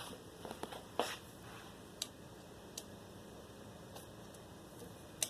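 Casablanca Delta II ceiling fan running quietly, a faint steady hum with a sharp tick about once a second. The owner puts the fan's noise down to dry, bad bearings.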